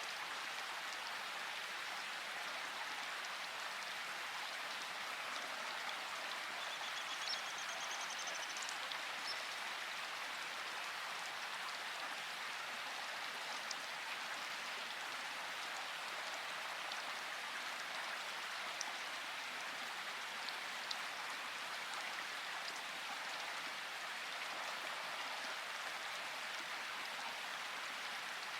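Steady rain falling, an even dense patter with a few slightly louder individual drops.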